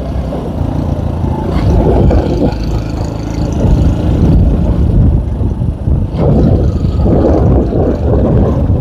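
K Moto ATX motorcycle running as it is ridden along, a loud, uneven rumble.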